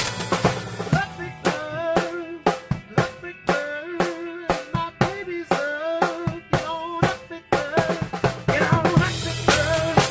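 A rock band playing: a drum kit beating steadily under a guitar lead line of bent, sliding notes.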